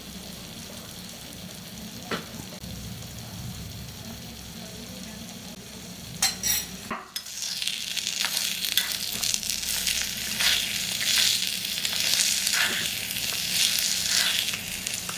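Food frying in hot oil in a miniature cooking pan. It starts as a low steady hum with a click or two, and about halfway through it breaks into loud sizzling and crackling.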